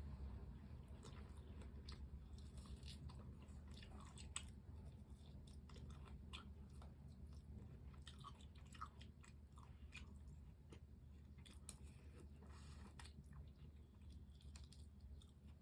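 Quiet chewing of crispy fried chicken, with irregular crunches and small mouth clicks.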